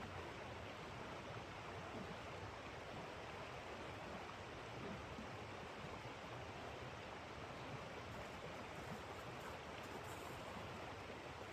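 Steady rushing noise of blizzard wind, even and unbroken.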